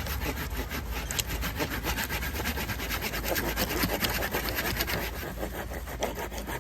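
Hand saw cutting through a wooden log with steady, rhythmic back-and-forth strokes, its teeth rasping in the wood.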